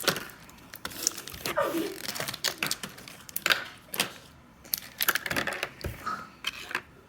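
Small hard objects being handled: a run of irregular clicks, light knocks and rattles with brief scraping and rustling between them.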